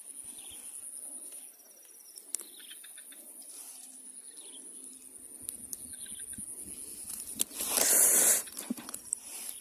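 Birds chirping over a steady high-pitched drone, with a loud rushing noise lasting about a second near the end.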